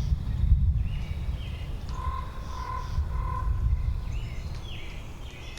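Wind blowing through a forest, a steady low noise that is strongest in the first second. Birds call over it: higher chirps about a second in and again near the end, and three short piping notes about two to three and a half seconds in.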